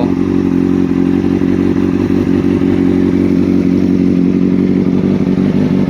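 Honda CBR600RR's inline-four engine idling steadily at an even pitch, warming up after a cold start.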